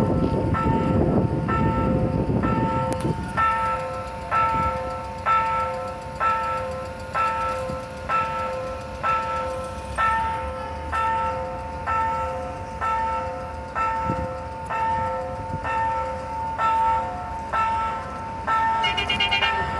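Level-crossing warning bell ringing about once a second, each stroke a ringing chord of several tones. The rumble of a passing CNR diesel multiple unit fades out in the first three seconds, and near the end a second, higher, rapidly pulsing ring joins in.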